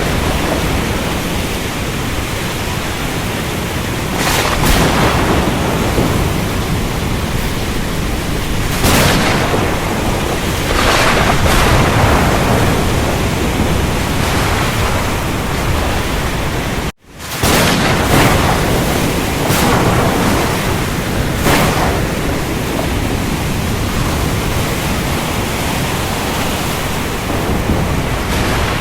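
Steady, heavy rain hiss with rolls of thunder swelling up every few seconds. A little past halfway the sound cuts out for an instant and resumes.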